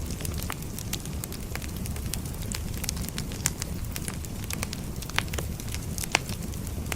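Firewood burning, with frequent irregular crackles over a steady low rumble. A few louder, sharper pops come about halfway through and near the end.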